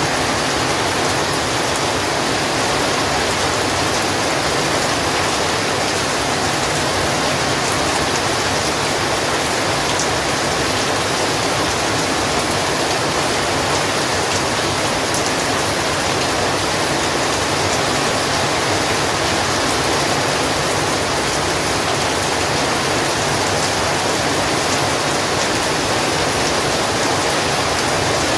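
Heavy rain falling steadily, a dense even hiss of downpour with faint scattered drop ticks.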